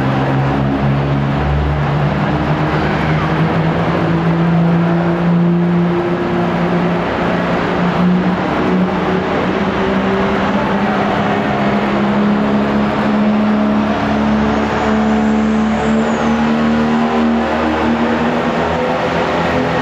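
Diesel pulling truck's engine running hard at high revs under load. Its pitch climbs slowly over the first several seconds, then holds high and steady.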